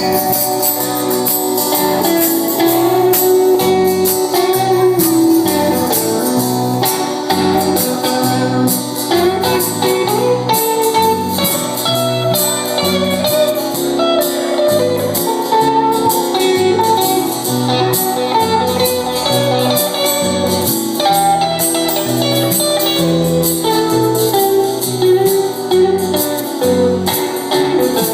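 A live band playing an instrumental break without vocals, guitar to the fore over a bass line and a steady beat.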